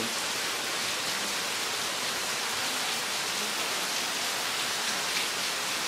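Heavy rain falling onto a waterlogged road: a steady, even hiss.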